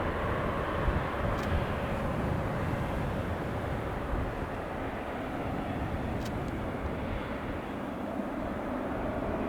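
Jet aircraft engines running, a steady rumble that holds throughout.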